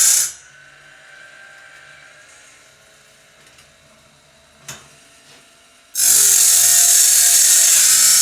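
Sawmill bandsaw-blade sharpener grinding the blade's teeth. The grinding stops just after the start, there is a sharp click near the middle, and the grinding starts again about six seconds in.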